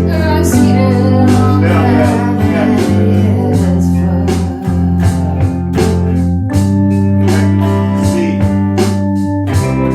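A band playing, with guitar and organ over held bass notes and a steady beat.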